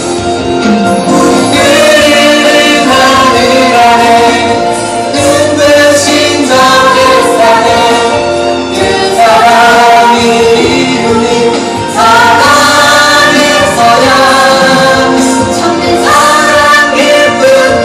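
Voices singing a Christian praise song over instrumental accompaniment.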